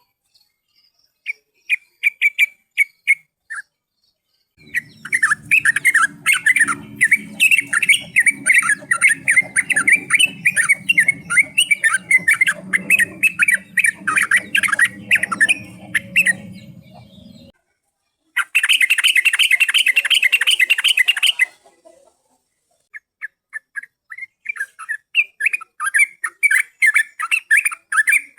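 Yellow-vented bulbuls (trucukan) calling in fast runs of repeated chirps, from a lure recording. The calls come in several bouts that start and stop abruptly, with a low hum beneath the first long bout.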